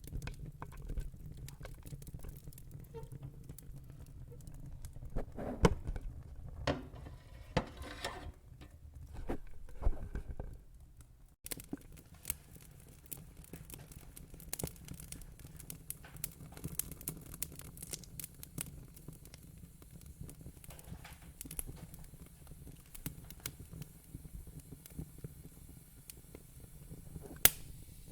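Wood fire in a fire pit crackling, with many small irregular pops over a low steady rumble. The sound changes abruptly about eleven seconds in, and two sharp, louder pops come near the end.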